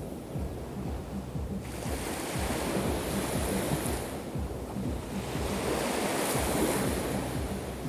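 Sea waves breaking and washing up the shore, two swells of surf about three seconds apart, with a low rumble of wind on the microphone.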